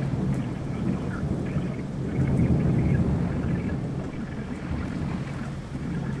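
Thunderstorm: rain with a continuous low rumble of thunder that swells about two to three seconds in and then slowly fades.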